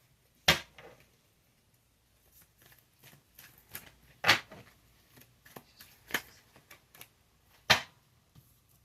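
Tarot cards being handled and laid down: three sharp slaps about half a second in, past four seconds and near eight seconds, with smaller ticks and rustles of the cards between them.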